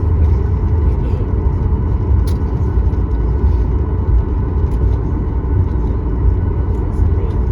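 Steady low rumble of a Boeing 737-9 MAX's CFM LEAP-1B engines and airflow as heard inside the passenger cabin, with a faint steady whine above it.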